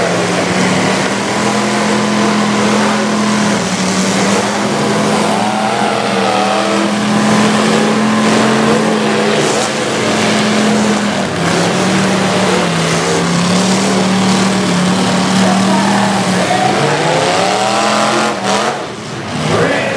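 Full-size demolition derby cars' engines revving hard in a steady, loud drone that rises and falls, with occasional bangs from cars colliding.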